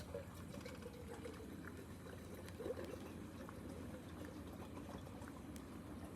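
Wood-pellet fire in a secondary-combustion wood stove burning with a steady rushing hiss of flame and a few faint crackles.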